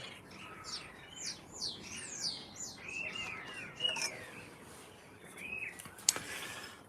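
Small birds chirping and twittering: a run of quick downward-sliding chirps, then several arched whistled notes. A single sharp click about six seconds in is the loudest sound.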